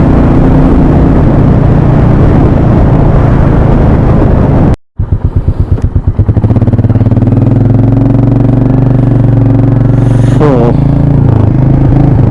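Motorcycle engine running with wind noise while riding. About five seconds in the sound cuts out for a moment, then returns as an engine idling with slow, even firing pulses that settle into a steady run.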